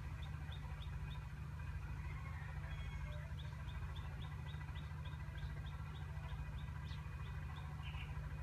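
A bird chirping in quick, even series, about four short high chirps a second, pausing for about two seconds partway through, over a steady low hum.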